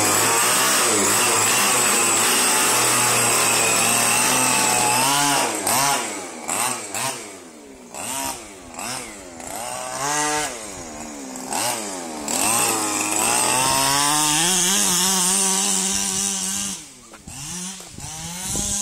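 HPI Baja RC buggy's small two-stroke petrol engine running loud: held at high revs for about five seconds, then revving up and down several times as the throttle is worked, held high again, and dropping to a low steady idle near the end.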